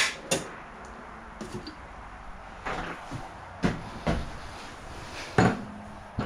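Hand tools and loose parts knocking against a mini bike's frame during teardown: about seven sharp knocks and clanks at irregular intervals.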